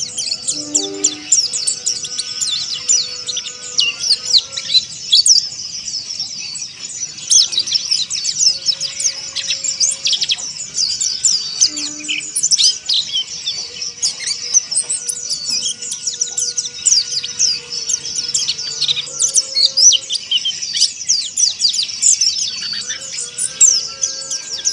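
Mountain white-eyes (pleci monty) twittering in a dense, rapid stream of high chirps and trills, with faint long steady tones beneath.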